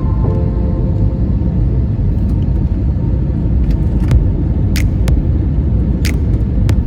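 Steady low rumble of airliner cabin noise aboard an Airbus A320neo on approach, with a few sharp clicks in the second half.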